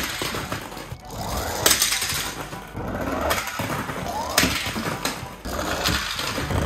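Diecast toy cars rolling down a ramp over background music: twice a rising whir ends in a sharp clatter, with other knocks in between.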